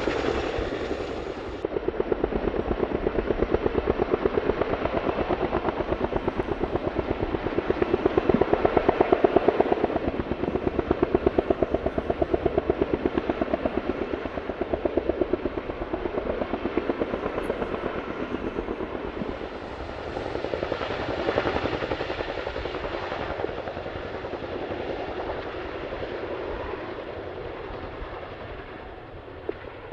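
Boeing CH-47D Chinook tandem-rotor helicopter flying overhead, its twin rotors making a rapid, steady blade chop over the turbine noise. It is loudest about a third of the way in, then grows softer and fades towards the end as it moves away.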